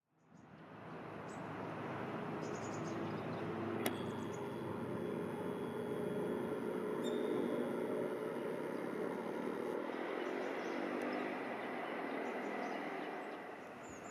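Steady rumble of a train running along the track, fading in at the start and easing near the end, likely a Watarase Keikoku Railway diesel railcar. Faint bird chirps come through now and then, with one sharp click about four seconds in.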